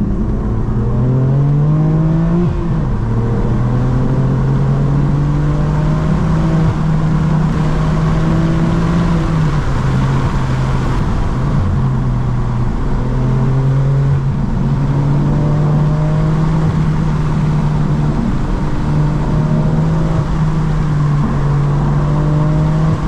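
BMW M4 F82's twin-turbo inline-six exhaust, valves open, under way. The pitch holds or climbs slowly, then drops in steps several times as gears are changed.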